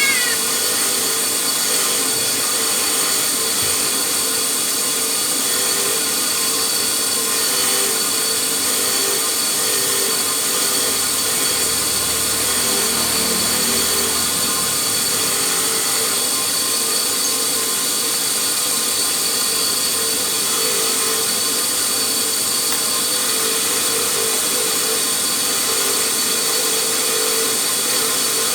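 Electric power tool running steadily and continuously, with a constant high whine and no pauses or hammering strokes.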